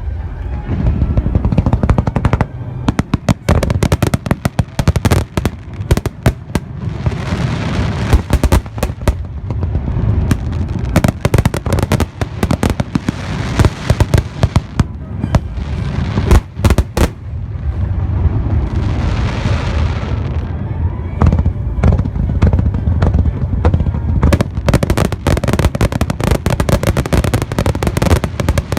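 Aerial fireworks going off in rapid, dense succession: a continuous run of sharp bangs and crackles over a low rumbling boom, with stretches of hissing crackle about a quarter, half and two-thirds of the way through.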